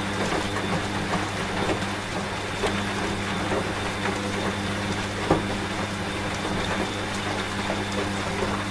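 Washing machine running with a steady low hum, mixed with steady rain and scattered drop ticks; one sharper tick about five seconds in.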